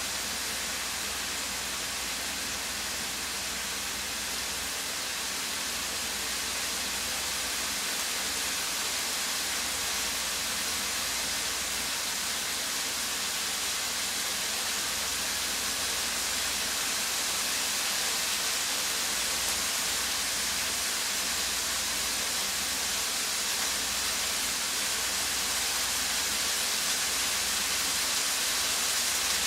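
A steady hiss, strongest in the upper range, with no separate splashes or calls, growing slightly louder toward the end.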